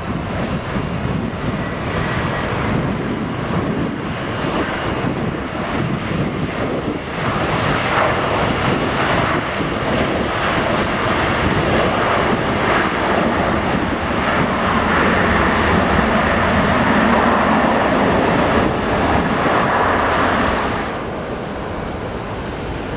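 Jet airliner engines roaring as a plane passes, growing louder about a third of the way in, loudest with a strong hiss near the end, then dropping off abruptly.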